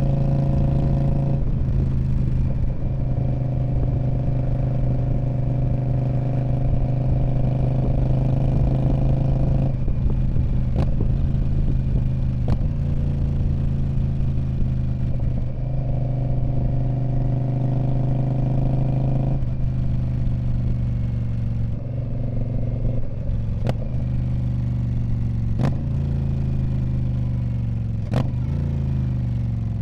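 2019 Indian Scout Bobber's 1133 cc V-twin running through a Freedom Performance Radical Radius exhaust. The engine note holds steady, shifts pitch a few times with throttle changes and falls near the end as the revs drop. There are a few sharp clicks along the way.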